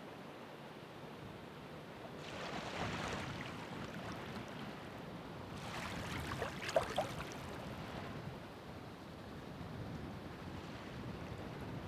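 Ocean waves breaking, with two surges of hissing wash about two and six seconds in. The second surge carries brief crackles of churning foam.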